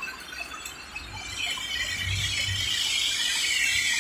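Heavy rain pouring down, with the hiss of car tyres on the flooded road. The noise grows louder from about a second and a half in as traffic passes, with a low rumble under it.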